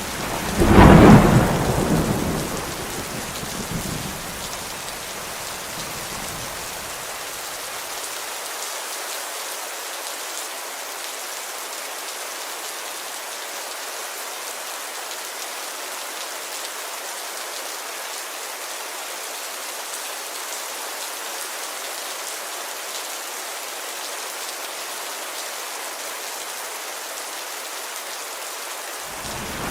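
Steady rain on a window glass. About a second in comes a loud thunderclap whose rumble dies away over the next several seconds, and another thunderclap breaks right at the end.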